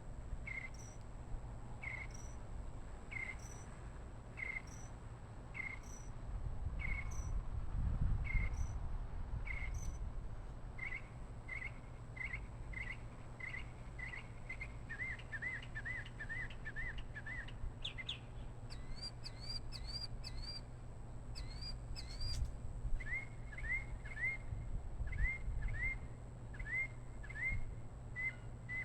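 A bird calling over and over in short chirps, at first about one and a half a second, then speeding up to a quick run of notes midway, followed by a few higher, rising notes before the steady chirping resumes.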